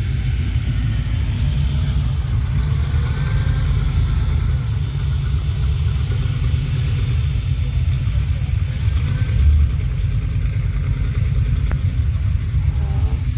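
Low, steady rumble of car engines running, as classic cars and hot rods arrive.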